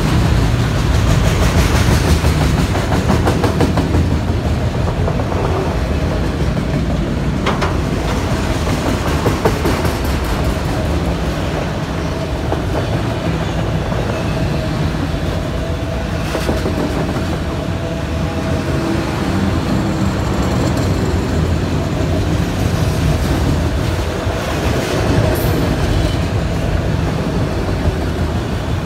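Freight train of enclosed autorack cars rolling steadily past close by: a continuous rumble and clatter of steel wheels on the rails, with a few sharp clanks.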